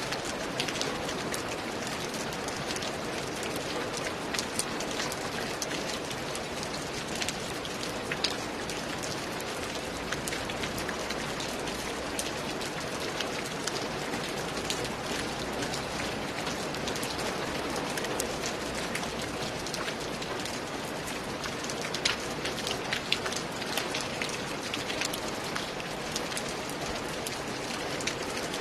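Steady rain falling on a roof: an even hiss with many sharp drops ticking here and there.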